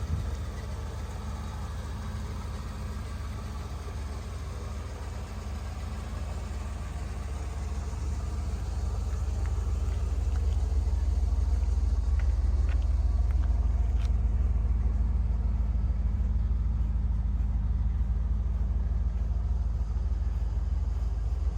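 The 1986 Pontiac Firebird Trans Am's V8 engine running with a deep, steady low rumble that grows louder a little under halfway through, then holds.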